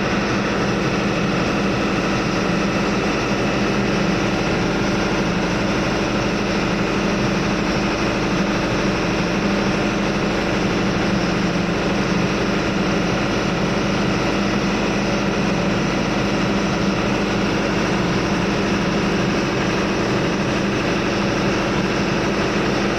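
Steady, loud drone of running machinery in a ship's engine room, a constant engine hum with a wide rush of noise that does not change.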